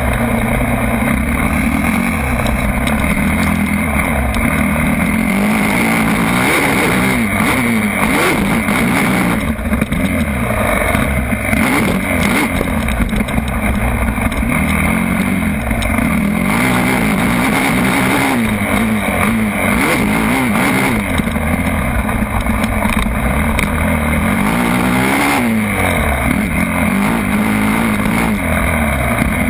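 Motocross bike engine revving up and down over and over, its pitch rising and falling every second or two as the throttle opens and closes.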